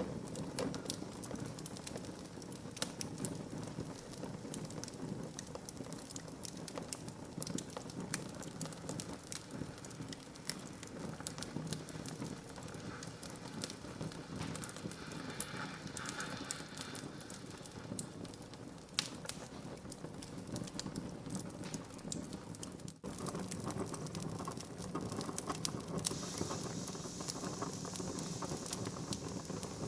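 Wood fire burning in a fireplace: a steady hiss with irregular crackles and pops from the burning logs.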